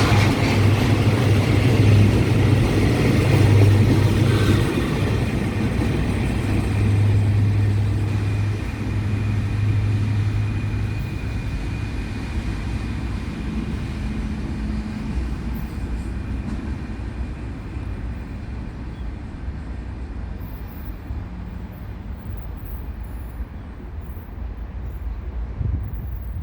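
Freight train hauled by a CRRC CDA5B1 diesel-electric locomotive, running with a steady low engine drone and rumble. The drone drops away about halfway through and the rumble slowly dies down as the train moves off.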